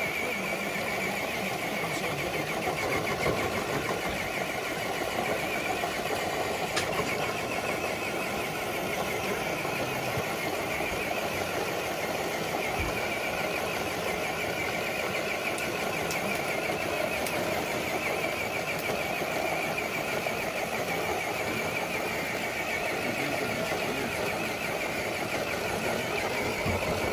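An RC scale truck's electric motor and geared drivetrain whining steadily under load as it pulls a dead-weight sled.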